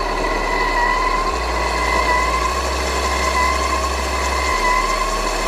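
A 1/14 scale RC model truck's electronic sound system playing a running truck engine, with a steady, slightly wavering high whine.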